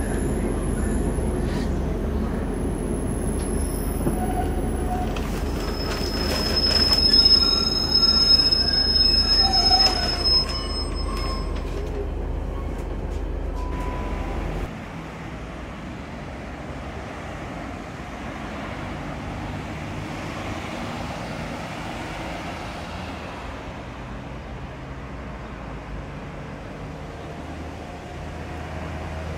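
A passenger train rumbling into a station as it slows, with a high steel-on-steel squeal of wheels or brakes loudest about seven to ten seconds in. Halfway through, the rumble cuts off abruptly and quieter steady background noise follows.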